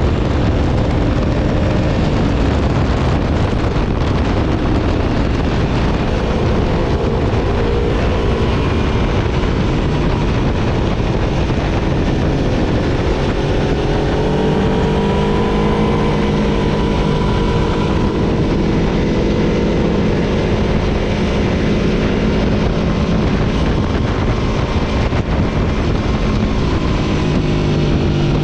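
Aprilia Tuono V4 motorcycle's V4 engine running at speed under heavy wind rush, its pitch rising and falling with the throttle and holding steadier for several seconds midway.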